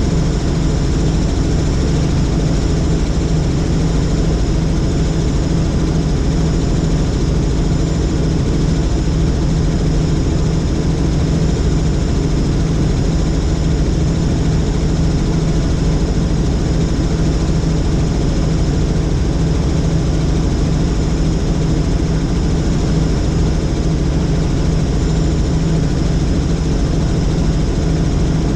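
Helicopter in flight: a steady drone of engine and rotor, a strong low hum with a few constant higher tones, unchanging throughout.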